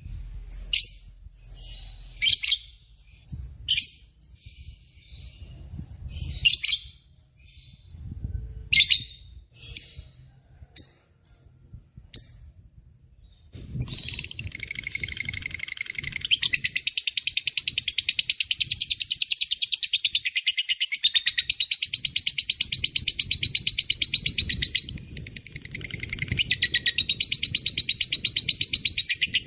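Lovebird giving short, separate high chirps about once a second, then about halfway through breaking into a long, rapid chattering trill (the 'ngekek'). The trill dips briefly near the end, then carries on.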